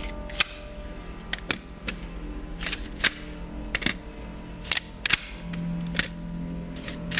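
Pneumatic nail guns' chambers being snapped shut one after another: a series of about a dozen sharp clicks, often in pairs, over background music with held low notes.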